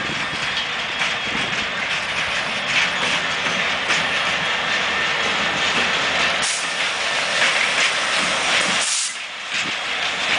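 Class 66 diesel-electric locomotive with its EMD two-stroke V12 engine running as it passes close by, hauling a heavy train of about 3000 tonnes of open wagons: a steady loud mix of engine and rail noise. The sound dips briefly about nine seconds in.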